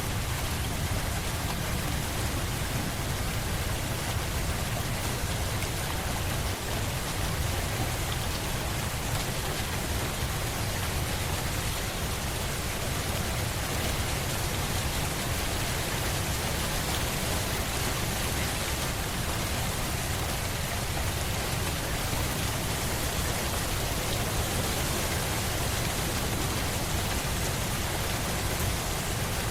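Steady rain falling and pattering on a surface, an even hiss with a low rumble underneath.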